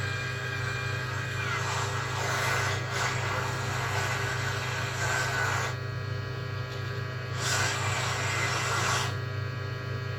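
Hot air rework station blowing onto the laptop motherboard to heat and clean a component: a hiss that comes in two long surges, over a steady low hum.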